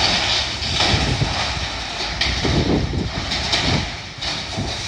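Wind buffeting the phone's microphone in irregular low gusts, over a steady outdoor rumble.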